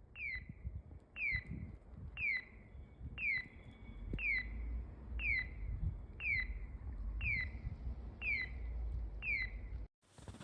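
A short, high chirp sweeping quickly downward, repeated at an even pace of about one a second, ten times in all, over a low rumble.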